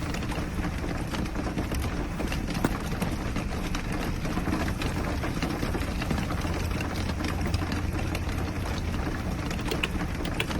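Rain pattering on the roof of a small tricycle camper: dense, irregular small taps over a steady low hum.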